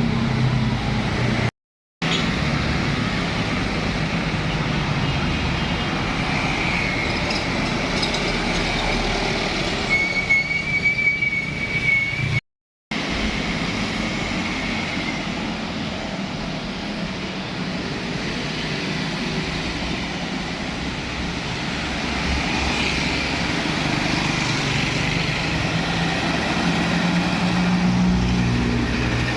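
Heavy trucks passing close by on a road: steady engine and tyre noise, cut off briefly twice, with a thin high whine lasting a couple of seconds about ten seconds in.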